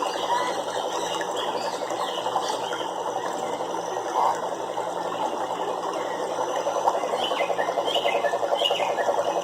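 Nature soundscape of a frog chorus, a dense rapid pulsing croaking that swells toward the end, with a few short bird chirps over it near the end.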